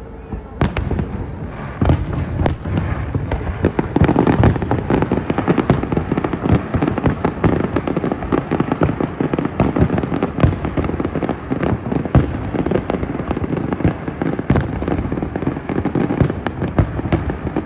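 Aerial fireworks display: a dense, continuous barrage of shell bursts and crackling, many bangs a second, growing fuller about two seconds in and again about four seconds in.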